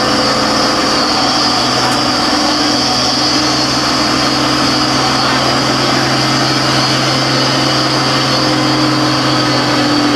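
Heavy diesel engine idling steadily under a dense, even hiss.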